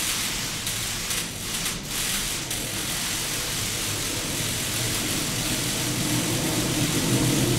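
Water from a digital rain curtain falling and splashing steadily into its basin, a continuous hiss of drops. A lower rumble swells and grows louder from about five seconds in.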